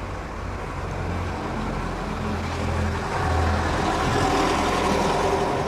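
A road vehicle's engine running close by in street traffic, a low rumble that grows louder through the second half.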